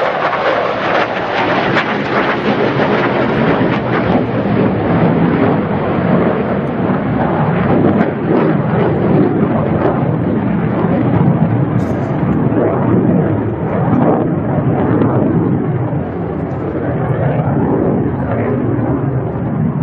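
F-16 Fighting Falcon's jet engine roaring during a display flight, a loud continuous crackling rumble whose hiss gradually dulls as the jet draws away.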